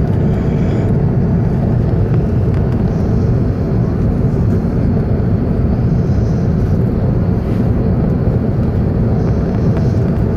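Steady low rumble of airflow and engine noise inside the upper-deck cabin of an Airbus A380 in flight on its landing approach.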